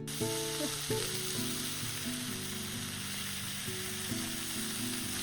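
Breakfast food sizzling in a hot frying pan, a steady hiss that starts suddenly, over soft guitar music.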